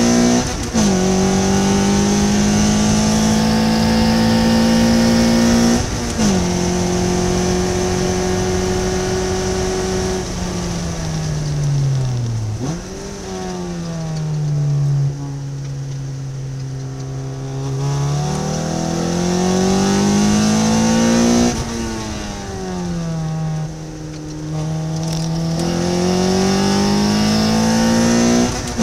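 Ariel Atom's engine under hard track driving. It pulls up through the revs with sharp upshifts about a second in and around six seconds, falls through the revs on braking with a quick throttle blip on a downshift about twelve seconds in, and holds low revs through a corner. It then accelerates again from about eighteen seconds, with another upshift around twenty-one seconds and one near the end.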